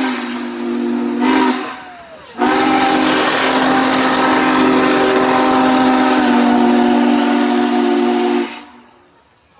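Steam locomotive's chime whistle sounding a chord of several steady tones over a hiss: one blast that breaks off about a second and a half in, then a long blast of about six seconds that stops near the end.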